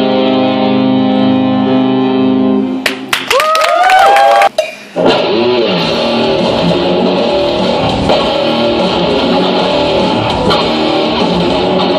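Instrumental rock led by an electric guitar: a held chord, then a short break of a few sharp picked notes whose pitch bends upward, after which the full band comes back in about five seconds in and plays on.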